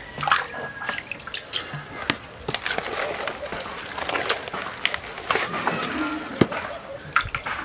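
Thick millet and cassava dough (TZ) being worked in a cooking pot: wet sloshing with irregular knocks and scrapes.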